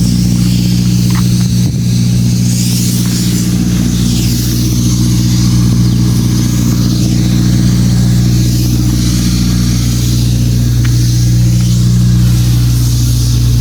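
Engine of a road construction machine, likely a road roller, running steadily at a constant speed, loud and close.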